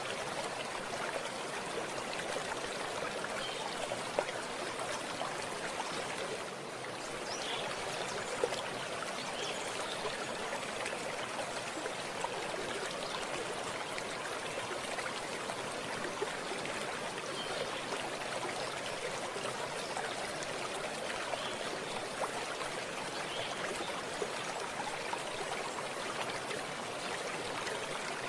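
Running water of a small stream, a steady rushing and trickling with small splashes here and there.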